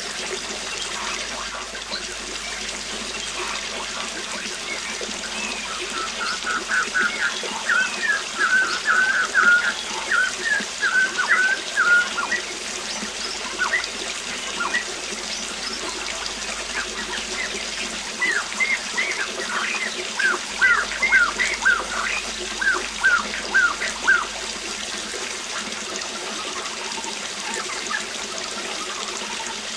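Waterfall splashing steadily, with a bird singing over it: a fast run of chirps about a fifth of the way in, then a slower series of separate repeated notes a little past the middle.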